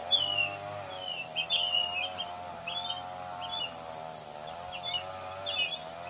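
Songbirds chirping and twittering: repeated short high notes and quick trills, over a steady, wavering drone.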